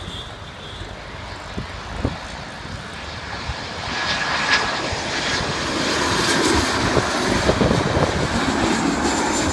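Jet engines of a Boeing 737-8GJ airliner on landing approach, a steady rushing roar that grows louder about four seconds in as the aircraft draws closer.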